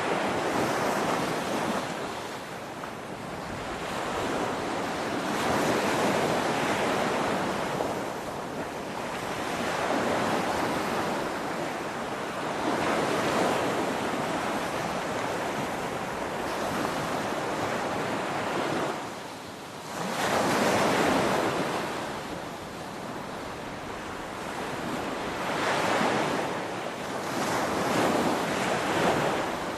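Ocean surf: waves breaking and washing ashore in a continuous rush that swells and ebbs every few seconds, with a brief lull just before a strong wave about two-thirds of the way through.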